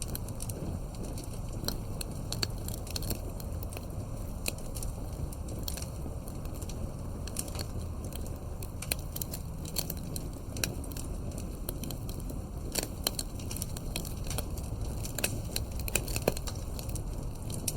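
Wood fire crackling, with irregular sharp pops and snaps scattered over a steady low rumble.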